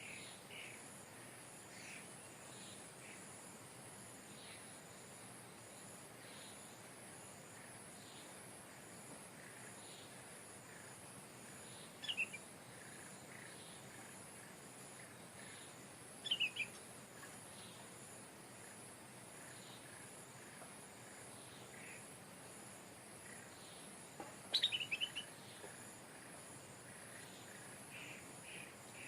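Stripe-throated bulbul giving three short, loud song phrases several seconds apart, each a quick run of notes falling in pitch. Behind it are faint scattered chirps from other birds and a steady high-pitched insect drone.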